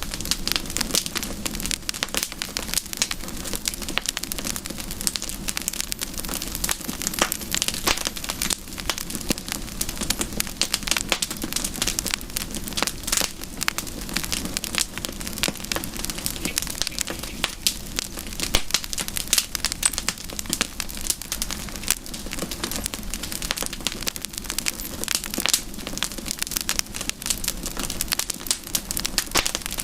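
Wood campfire burning, with dense, irregular crackles and pops over a low, steady rush of flame.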